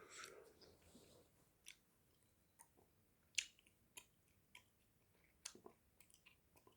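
Gum chewing close to the microphone: faint, irregular soft clicks and smacks of the mouth, about a dozen of them, the sharpest a little past the middle.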